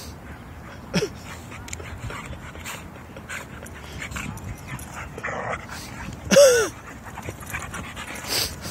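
Dogs play-fighting: one dog gives a short yelp about a second in, then a louder whining yelp that falls in pitch a little after six seconds, with small clicks and scuffling in between.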